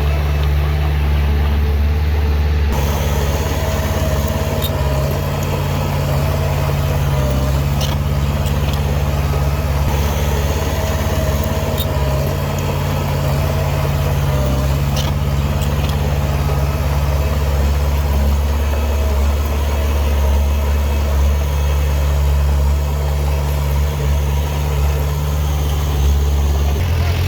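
Heavy diesel engine of an earthmoving machine running steadily, with a faint whine over the low engine hum and a few light clicks.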